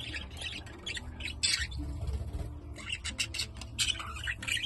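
A flock of budgerigars chirping and chattering, many short overlapping calls, over a steady low rumble.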